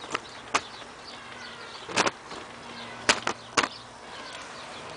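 Sharp single clicks from the LG F1222TD washing machine's control panel as its settings are worked through, about six in all, with three in quick succession near the end.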